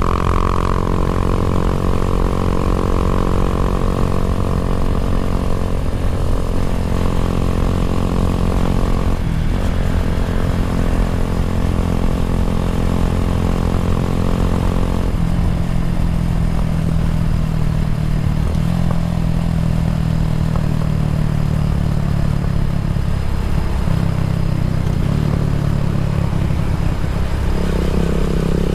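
Kawasaki W175's single-cylinder engine running through an aftermarket racing exhaust. Its pitch changes in steps every few seconds, about six times.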